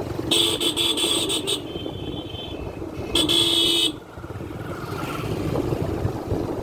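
A vehicle horn honks twice: a stuttering series of short toots lasting about a second, then a steadier blast a few seconds in. Underneath is a steady low rumble of a running motor vehicle and road noise.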